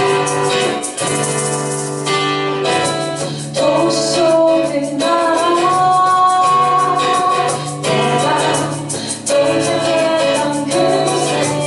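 Live band performing a song: singing over instrumental accompaniment with a steady rhythm.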